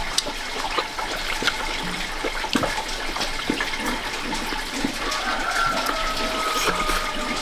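Running, splashing water with scattered small clicks and knocks.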